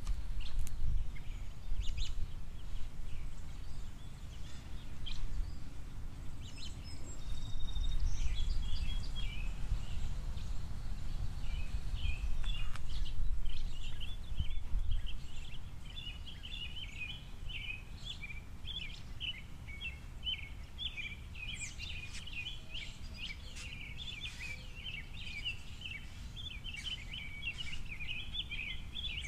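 Small songbird singing a long, rapid twittering song from about eleven seconds in, with a few scattered chirps before it, over a steady low outdoor rumble.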